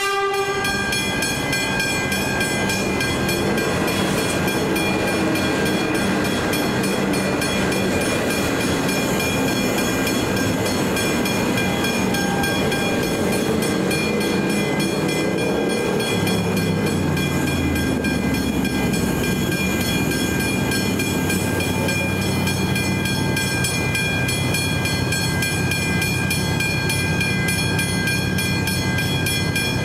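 Level crossing bells ringing without pause while a Melbourne suburban electric train passes over the crossing. The train's motors whine, rising and falling, and its wheels rumble through the middle of the passage.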